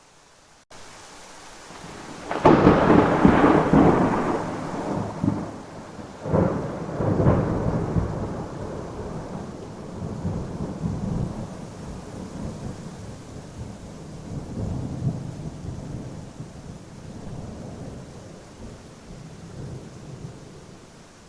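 Thunder over steady rain: a sharp clap about two and a half seconds in, two further cracks a few seconds later, then a long rolling rumble that slowly fades.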